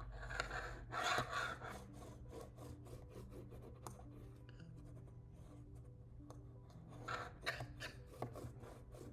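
Cardstock rubbed and handled on a tabletop, scraping strokes near the start and again near the end, with faint soft background music notes in between.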